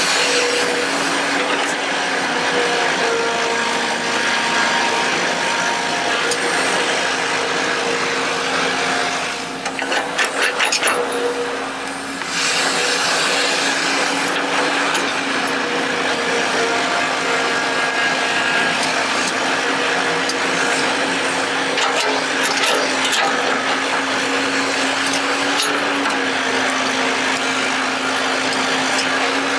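Radio-controlled hydraulic excavator's pump motor whining steadily, its pitch shifting slightly as the machine works. About ten seconds in the whine dips briefly, with a quick run of clicks, before it resumes.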